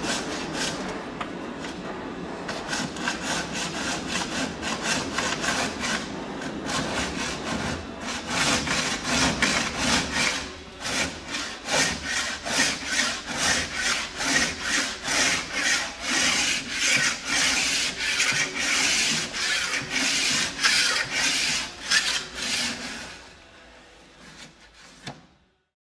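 Toko radial base file scraping along a ski's steel edge in quick repeated push strokes, cutting the proud edge down to the level of the base. The rasping stops near the end.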